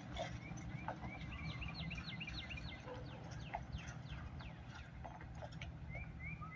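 A songbird singing a rapid series of short chirps, some rising and some falling, breaking off about four seconds in and starting again near the end, over a steady low rumble.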